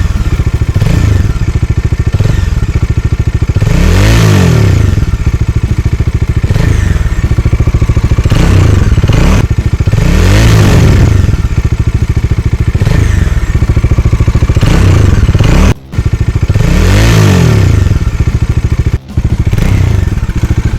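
Bajaj Dominar 400's single-cylinder engine running and revved again and again, the pitch climbing and falling back each time. Three big revs come about six seconds apart, with smaller throttle blips between them.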